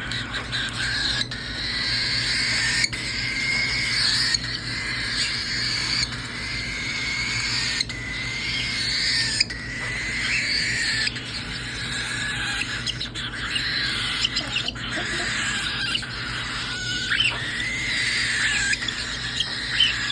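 Baby cockatiel chicks giving continuous raspy, hissing begging calls for food, several voices overlapping.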